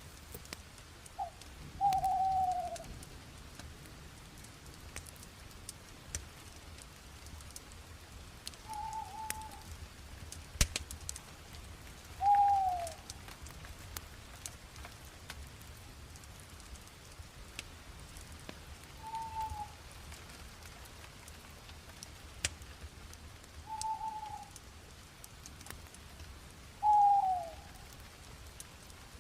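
A bird gives about seven short calls, each sliding down in pitch, spread every few seconds. Under them, a wood fire crackles faintly with scattered small pops and one sharper crack about ten seconds in.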